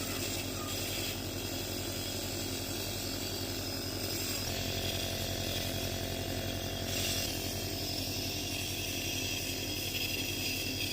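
Compressor nebulizer running with a steady, fast buzzing hum, its small piston pump driving the mist for a child's inhalation treatment. A faint higher tone joins about four and a half seconds in.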